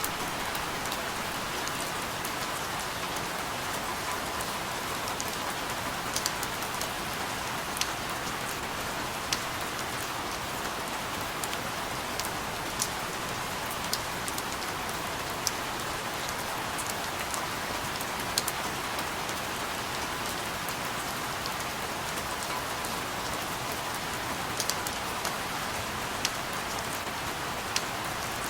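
Steady rain falling, an even hiss with scattered sharper drips landing every second or two.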